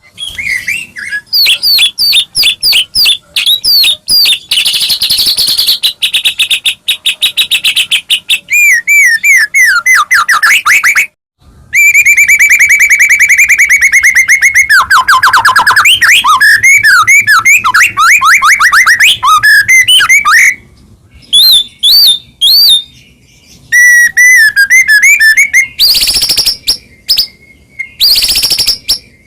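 A white-rumped shama (murai batu) singing loudly in fast, varied phrases of rapid repeated whistled notes, trills and sweeps. Short pauses separate the phrases, and a long run of quick notes comes about twelve seconds in.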